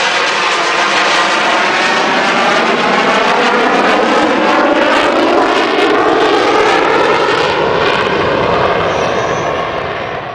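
Fixed-wing airplane's engine flying past, loud and continuous, its pitch lines slowly shifting as it goes by, fading near the end.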